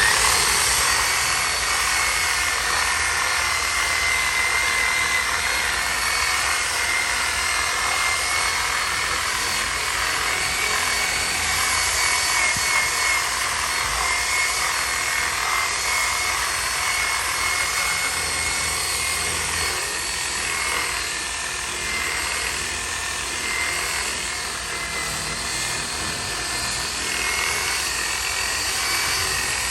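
A power tool's electric motor running steadily, a continuous whir with a high whine, switched on abruptly at the start.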